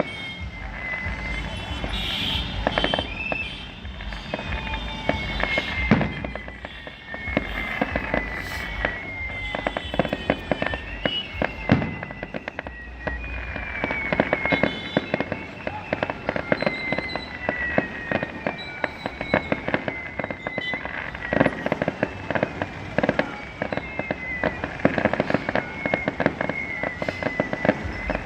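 Fireworks display: a dense run of bangs, pops and crackles going off one after another, with high whistles sliding down in pitch every few seconds.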